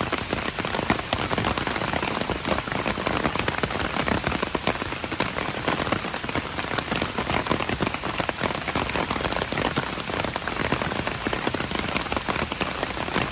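Steady rain falling, with a dense patter of individual drops striking a hard surface close by.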